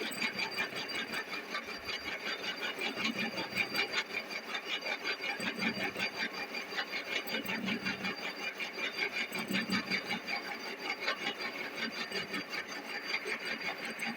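A metal scraper working a steel surface in quick, even strokes, about three to four a second, taking off curled chips. The steel cuts softly.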